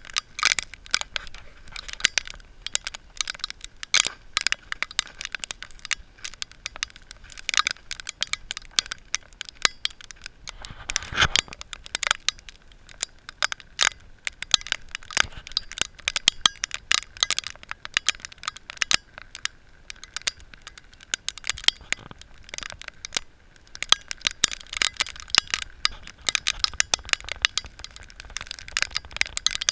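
Freezing rain and ice pellets striking hard surfaces: a dense, irregular stream of sharp ticks and clicks.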